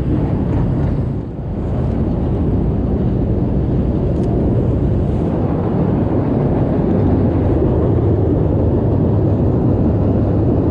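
Steady, loud low rumble of city street noise on the camera microphone, with a brief dip about a second in.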